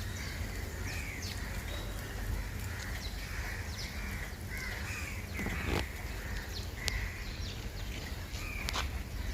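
Birds calling over and over, short calls about once a second, over a steady low rumble.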